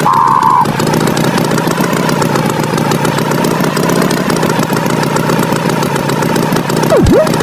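Cartoon tractor engine sound effect running steadily, with a short high tone at the start and a quick swooping effect near the end that drops sharply in pitch and rises again.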